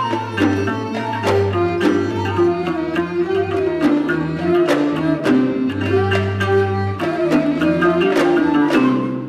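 Bahraini sawt ensemble music: string instruments playing the melody over regular hand-drum strikes. The sound starts to fade at the very end.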